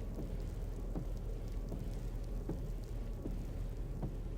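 Storm ambience sound effect: a steady rain-like hiss over a low rumble, with faint ticks repeating about every three-quarters of a second.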